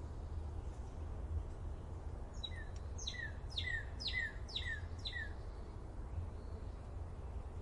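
A songbird sings a run of five or six sharply falling whistled notes, about two a second, a couple of seconds in, over a steady low background rumble.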